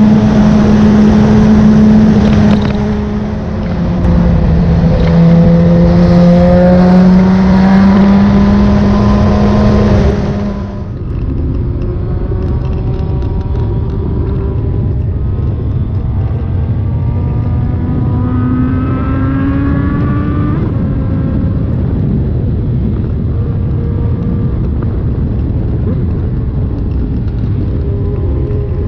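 Suzuki GSX-R1000's inline-four engine running through an SC Project exhaust with the catalytic converter removed, its note dipping and then climbing in pitch as the revs rise. About eleven seconds in, the sound abruptly turns duller and quieter, a low steady rumble with another brief rise in revs.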